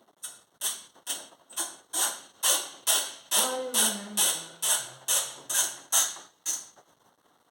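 Hand ratchet wrench working a bolt in: a regular clicking rasp on each return stroke of the handle, about fifteen strokes at roughly two a second. A faint low tone steps down in pitch partway through.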